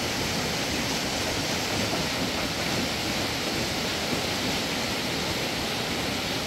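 Steady, even rushing noise with no distinct events, like running water or wind on the microphone.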